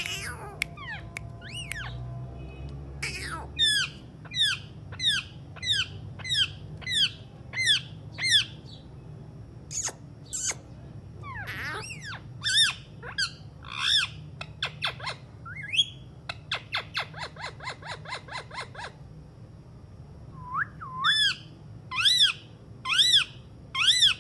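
Alexandrine parakeet calling: runs of repeated shrill calls, about two a second, and a fast train of short, quick notes partway through.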